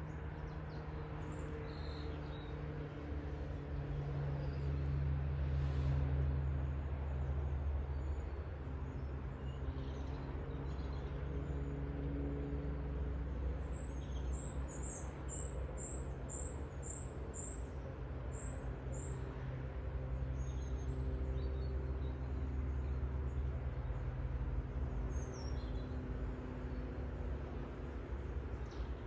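Outdoor background of a steady low rumble with a faint wavering hum, over which a small bird chirps now and then, with a quick run of about ten chirps about halfway through.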